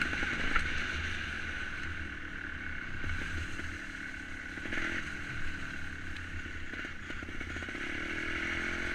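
Two-stroke trials motorcycle engine running at low, gently rising and falling revs while being ridden off-road, with scattered light clattering.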